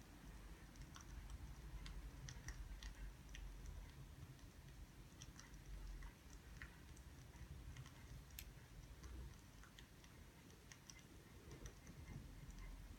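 Faint crackling of burning firewood: small sharp pops and ticks at irregular intervals over a low steady rumble.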